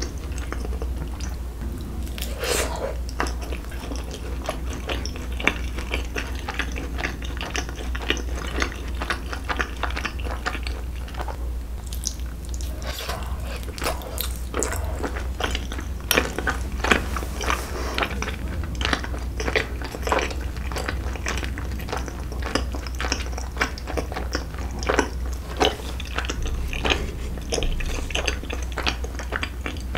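Close-miked chewing and biting of a mouthful of chewy rice cake and tteok-galbi (grilled minced-meat patty) from a skewer: many small irregular clicks over a steady low hum.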